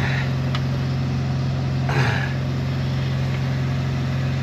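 Engine of a drain-jetting machine running steadily at a constant pitch while the jetting hose is worked through a root-blocked pipe, with a brief louder noise about two seconds in.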